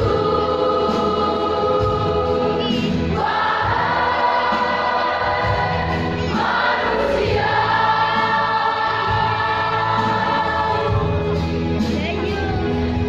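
Church choir singing together in harmony, with two long held chords in the middle of the phrase.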